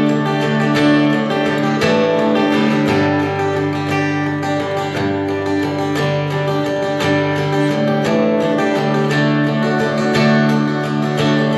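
Acoustic guitar strumming chords in an instrumental passage of a live folk-country song, with no singing.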